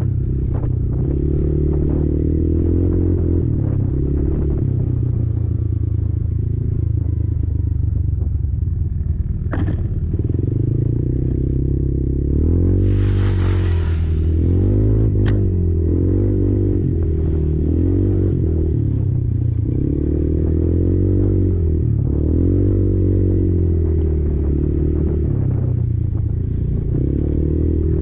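Kymco Maxxer 300 quad's engine running under changing throttle, its pitch rising and falling again and again. It is joined by a couple of sharp knocks and, about halfway through, a short rush of noise.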